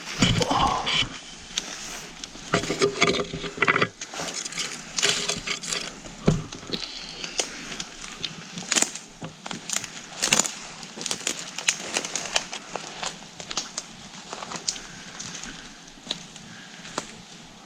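Footsteps pushing through forest undergrowth and woody debris, with irregular cracking of twigs and branches and rustling of brush.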